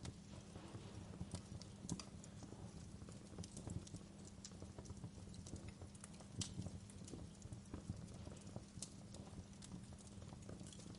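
Wood fire crackling: irregular sharp pops and snaps over a faint, steady low rumble.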